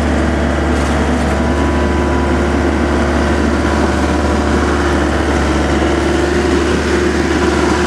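Amphibious excavator's diesel engine running steadily at close range with a constant low hum.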